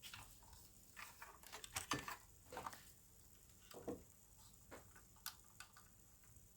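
Faint, irregular small clicks and rustles of hands handling and fitting small plastic model parts and tubes, busiest about a second or two in.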